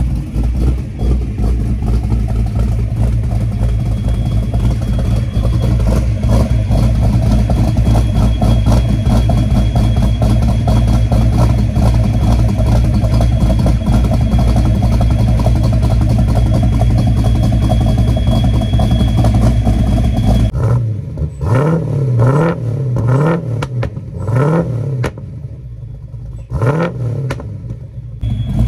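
Ford small-block V8 in a Fox-body Mustang, fitted with a Trick Flow top-end kit (cylinder heads and cam), idling steadily and rowdy. About twenty seconds in it is revved in quick blips, rising and falling about six times.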